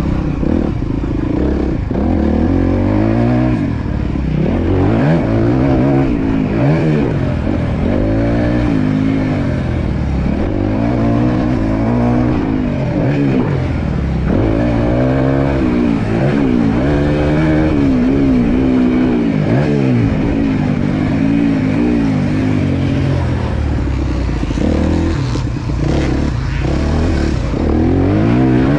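Four-stroke motocross bike being ridden hard around a dirt track, the engine revving up and dropping back again and again every second or two as the rider accelerates out of corners and shifts or backs off.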